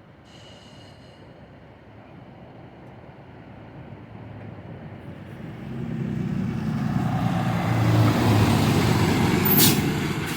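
A road vehicle drawing near and passing close by: engine and tyre noise swell from faint to loud over several seconds and peak about eight seconds in. A single sharp click comes near the end.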